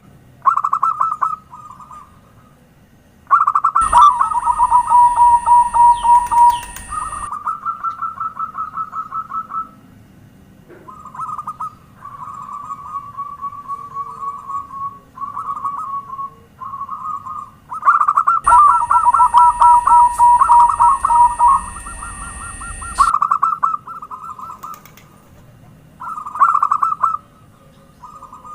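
Zebra dove (perkutut) song used as a lure call: phrases of rapid, stuttering cooing notes, repeated in bursts with short pauses between them.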